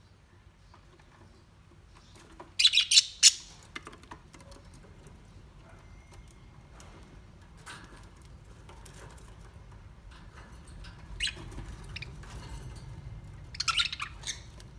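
Birds chirping and squawking in short sharp calls, with three louder clusters about two and a half seconds in, around eleven seconds in and near the end, and softer scattered calls between them over a faint low rumble.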